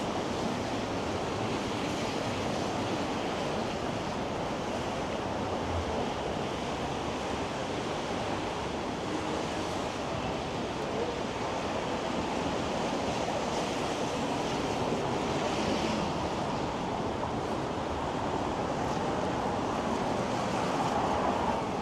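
Steady wash of city street traffic noise mixed with wind, with no single event standing out.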